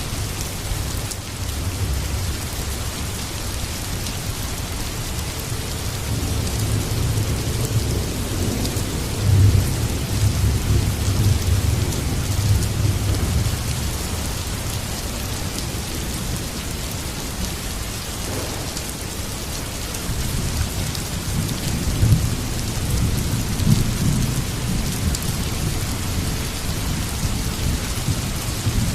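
Heavy rain falling steadily, with rolling thunder rumbling low beneath it. The thunder swells twice, each time with a few sharper claps.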